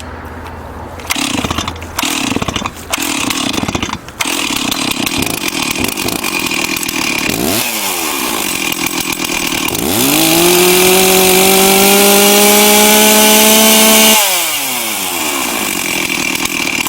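Stihl MS360 two-stroke chainsaw, freshly tuned after sitting four years, pull-started on no choke with the compression release out: a few short bursts, then it catches about four seconds in and idles. It is blipped briefly, then held at high revs for about four seconds before dropping back to idle.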